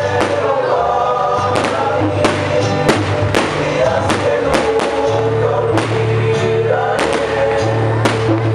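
Loud music with a melody over sustained bass notes, broken by irregular sharp bangs of exploding fireworks, several per second at times.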